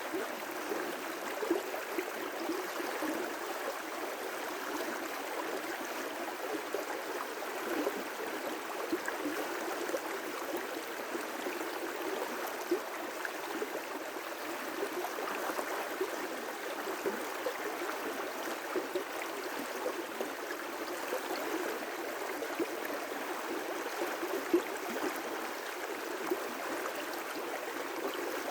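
River rapids: water rushing and splashing steadily over rocks, with small splashes and gurgles throughout.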